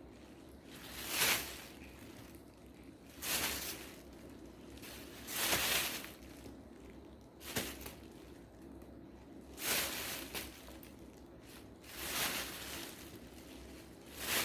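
Chicken legs being shaken in seasoned flour, a short rustling swish about every two seconds.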